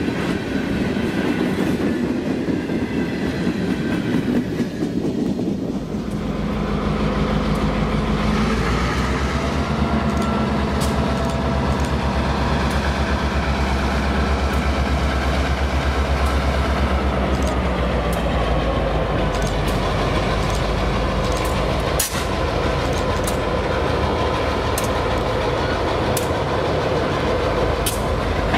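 Loaded freight cars rolling past with steady wheel-on-rail noise. About six seconds in this gives way to the low drone of Norfolk Southern EMD diesel locomotives, a GP38-2 leading an SD40-2. Their wheels clack over rail joints on a trestle, and the clacks come more often toward the end.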